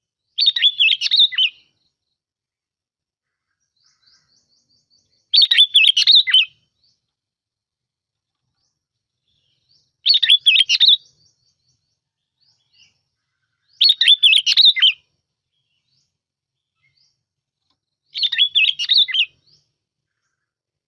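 Sooty-headed bulbul singing its short, bubbling song phrase five times, each burst about a second long with a few seconds of quiet between them. This is a lure song ('mồi') of the kind played to attract or train bulbuls.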